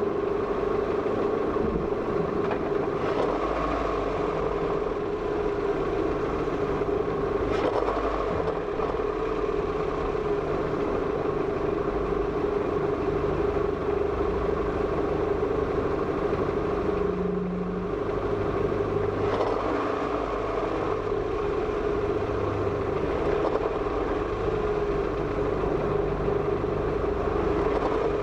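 A car's engine running steadily at low speed, with a constant droning hum and a few faint clicks.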